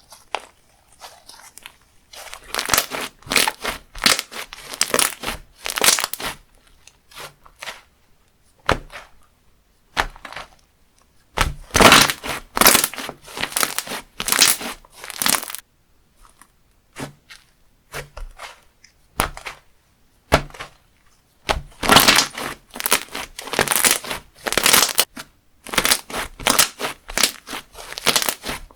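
Slime being squeezed and pressed by hand, crackling and crunching in runs of a second or a few seconds, with short pauses between them.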